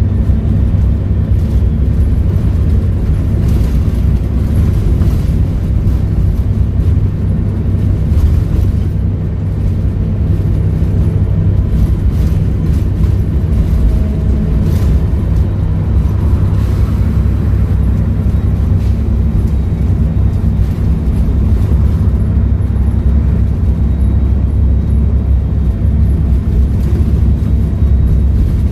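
Volvo B7RLE single-deck bus's six-cylinder diesel engine running steadily, a deep, even drone with no clear revving or stops.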